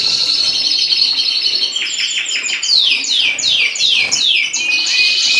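Canary singing: a long rapid high trill, then a run of quick downward-sweeping notes, then another trill.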